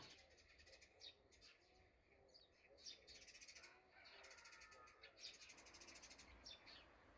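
Near silence with faint birds chirping, including two rapid high trills of about a second each.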